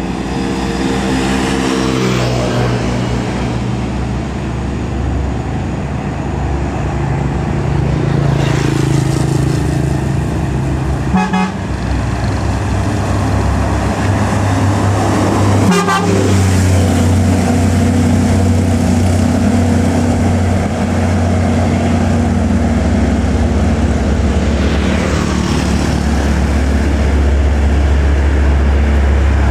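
Heavy buses and trucks driving past on a highway: a loud, steady diesel engine drone whose pitch shifts in steps, with a vehicle horn tooting.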